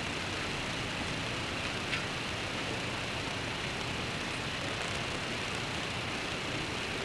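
Steady rain ambience: an even, unbroken hiss with a faint drip ticking about two seconds in.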